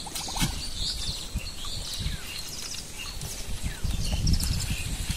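Small birds chirping and calling, with short trills and rising or falling notes, over an irregular low rumble.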